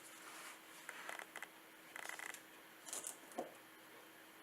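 Faint handling of the watch's packaging: a few short scrapes and rustles as the case is opened.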